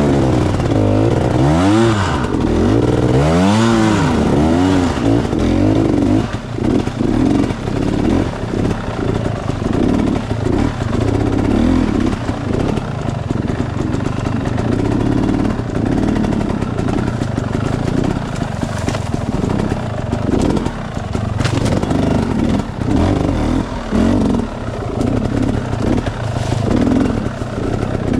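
Enduro dirt bike engine revving in several rising and falling sweeps over the first few seconds, then running with choppy, on-and-off throttle.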